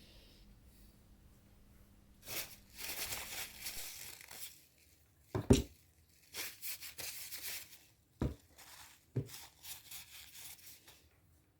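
Hands working on a car gear lever tower assembly: stretches of rustling and crinkling handling noise, with a sharp loud knock about five and a half seconds in and two lighter knocks later.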